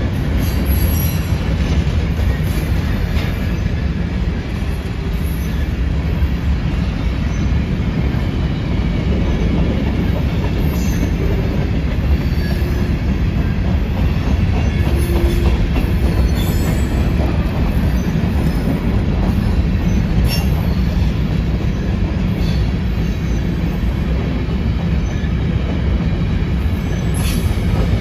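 Freight cars, covered and open hoppers, rolling slowly past: steel wheels rumbling on the rails, with scattered clicks over rail joints and brief wheel squeals now and then.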